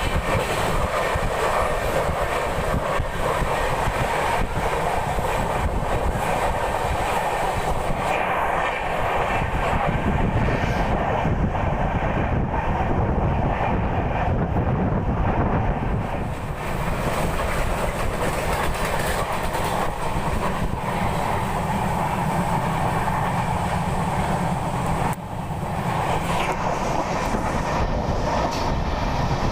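Passenger train running along the track, heard from on board: a steady rumble with the clickety-clack of wheels over rail joints. The higher hiss dulls for a few seconds midway.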